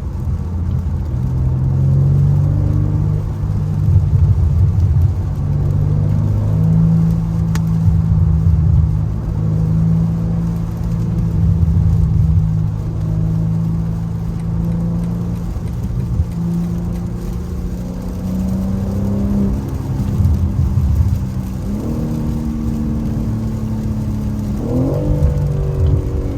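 BMW M3 Competition (G80) with its twin-turbo 3.0-litre inline-six, engine and exhaust running at low, fairly steady revs while driving. The pitch steps up about 22 seconds in and rises again near the end as the engine is revved harder.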